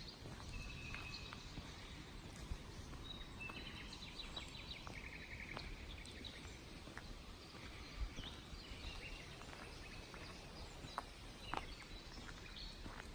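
Small birds chirping and calling in short bursts over a faint, steady outdoor background hiss, with a few brief clicks.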